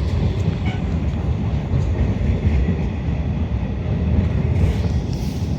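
Diesel train running at the station, a steady low rumble with no distinct clanks or horn.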